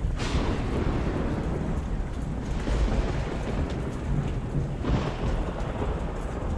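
Thunderstorm: steady rain over a deep rumble of thunder, with swells of thunder breaking in at the start, again about two and a half seconds in, and once more about five seconds in.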